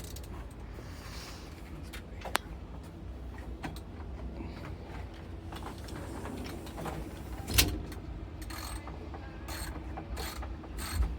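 Socket wrench working the spark plug out of a Homelite two-stroke leaf blower engine: scraping metal handling, a sharp click about two seconds in and a louder knock about halfway through, then evenly spaced ratchet clicks near the end.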